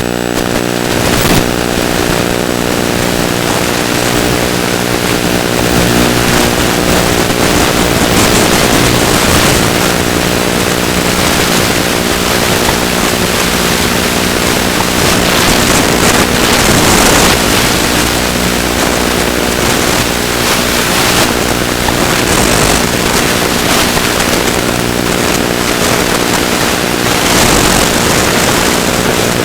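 Electric motor and propeller of a ZOHD Drift FPV glider running steadily in flight, with gusting wind noise over the microphone.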